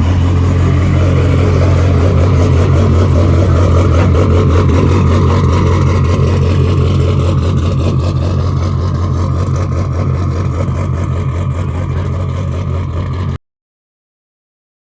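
Loud race car engine running at a steady, lumpy idle, with a deep, fast pulsing note. It cuts off abruptly about thirteen seconds in.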